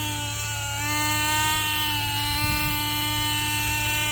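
Small nitro glow engine of a Lite Machines RC helicopter running at flight power, a high steady buzz. Its pitch sags a little in the first second, then holds steady.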